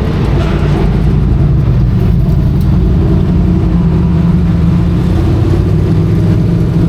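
Dirt modified race car engines running loud and fairly steady, the pitch wavering only slightly.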